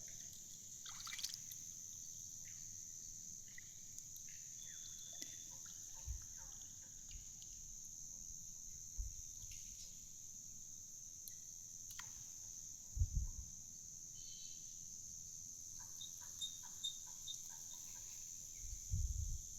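Faint water trickling and small splashes over a steady high-pitched hiss, with scattered small chirps and a few soft low thumps, the loudest about 13 seconds in and again near the end.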